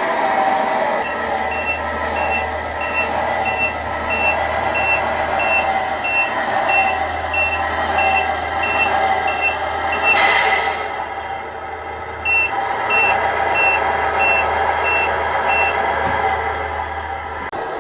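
Sound unit of a Tamiya 1:14 Mercedes-Benz Actros RC truck playing a reversing beeper, a steady high beep about one and a half times a second, over a low idling-engine hum: the truck is backing up. The beeping pauses briefly about ten seconds in, around a short hiss, then starts again.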